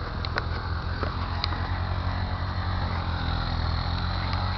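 Car driving through fresh snow: a steady low rumble of engine and tyres, with a few faint clicks.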